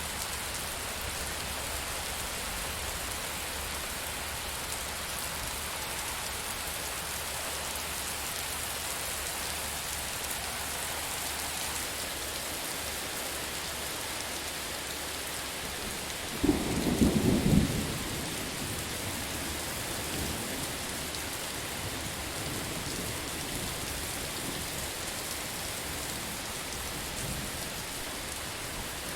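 Steady rainfall hissing throughout. About two-thirds of the way through, a short, loud, low thunder crack rumbles for about a second and a half.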